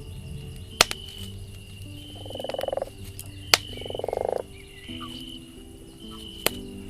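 Two rasping, rapidly pulsed frog croaks, each under a second long, in the middle. Three sharp pops from a crackling campfire come about a second in, halfway through and near the end.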